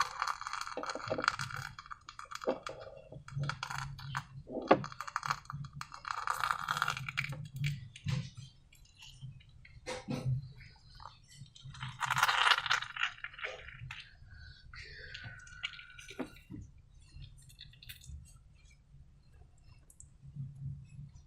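Slime being squished and worked: several bursts of wet, crackly squelching with a few sharp clicks, and a brief squeak about two-thirds of the way through.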